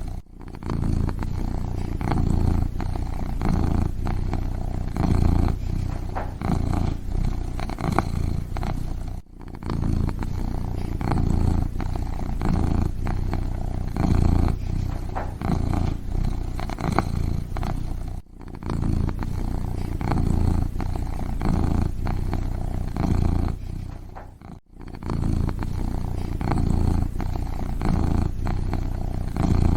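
Kitten purring steadily and close up, a continuous low pulsing purr with short breaks about four times.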